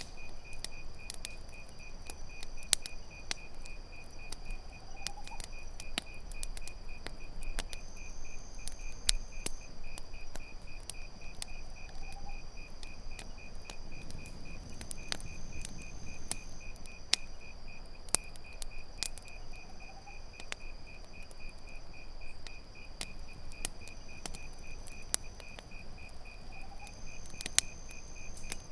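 Campfire crackling with irregular sharp pops, over a steady, rapidly pulsing cricket chorus.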